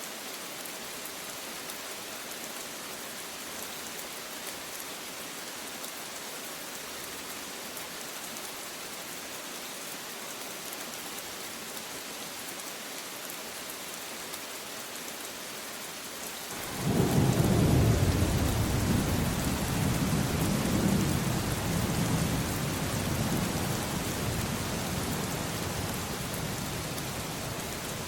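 Steady rain falling, then about two-thirds of the way through a sudden loud clap of thunder that rolls on as a deep rumble and slowly fades, with the rain continuing underneath.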